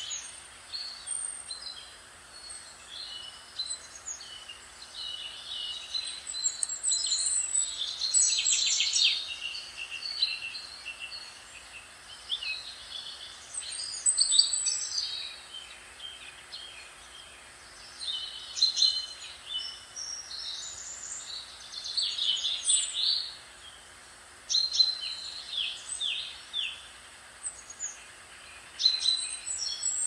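Songbirds singing: bursts of quick, high chirps and trills every few seconds, over a faint steady hiss.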